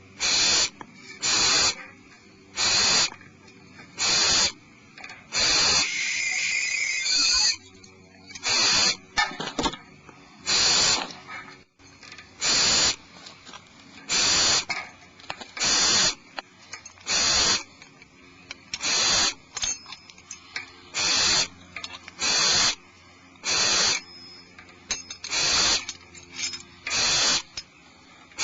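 Barn owl giving repeated hissing 'snore' calls, short breathy rasps about one every second and a half. About six seconds in there is one longer, screechier call.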